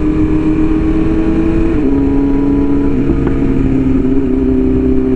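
Sport motorcycle's inline-four engine (BMW S1000RR) running under way at steady cruising throttle, over constant wind rush. The engine note steps down twice, about two and three seconds in.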